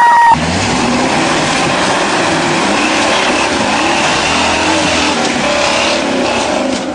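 A 4x4 truck's engine running hard as it drives, its pitch rising and falling over a loud rushing noise. A steady tone before it cuts off suddenly just after the start.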